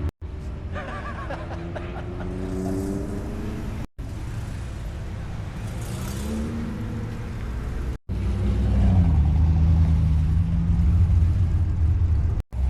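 Car engines running at low revs, with some rises and falls in pitch. The sound is cut into short stretches by brief silent gaps, and it gets louder after about eight seconds.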